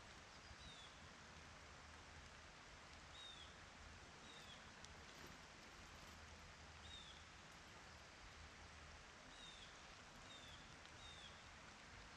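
Faint, steady outdoor hiss with a small bird's short, high chirps, each dropping slightly in pitch, heard about seven times at irregular gaps.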